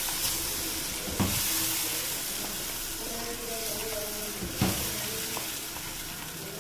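Mutton, tomato purée and spices sizzling as they fry in a karahi while a spatula stirs and scrapes them around. The spatula knocks against the pan about a second in and again past halfway.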